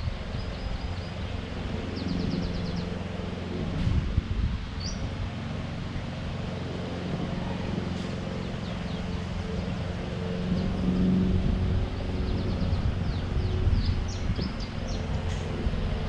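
Small birds chirping in short quick runs of high notes, several times over, over a steady low outdoor rumble with a faint hum.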